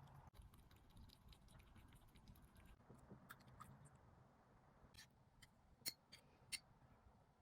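Near silence with faint, scattered light clicks and ticks; two sharper ticks come about six seconds in.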